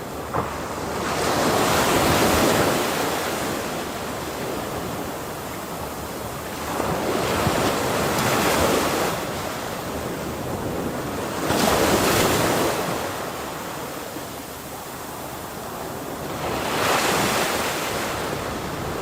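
Ocean waves breaking on a shore, four swells of surf rising and falling a few seconds apart over a steady wash, with wind on the microphone.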